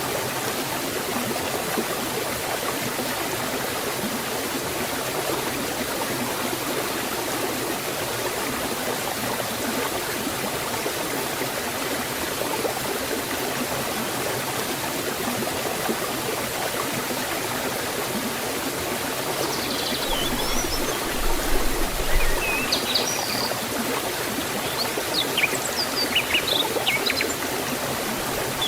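Waterfall and stream water flowing in a steady, even rush. From about twenty seconds in, a few short, high chirps sound over it.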